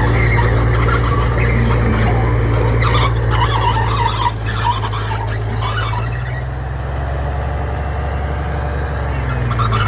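D60 crawler bulldozer's diesel engine running steadily, with squealing from the tracks in the first half. The engine note drops for a few seconds past the middle, then comes back up near the end.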